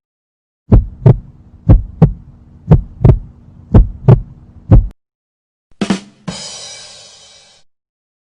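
Heartbeat sound effect: paired lub-dub thumps, about one pair a second, with a faint steady hum beneath. A little after it ends come two quick low drum hits and a ringing cymbal that fades out, a ba-dum-tss sting.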